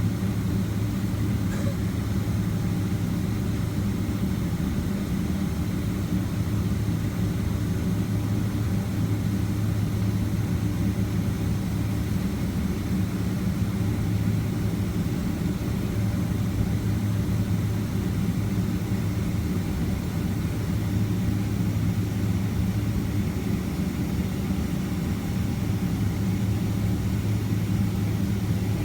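Steady low drone of a Boeing 767-300ER's jet engines and airframe heard inside the passenger cabin, holding an even level and pitch throughout.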